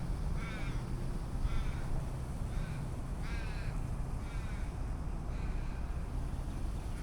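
A raven cawing about six times, each call harsh and falling slightly, roughly a second apart, over a steady low background rumble.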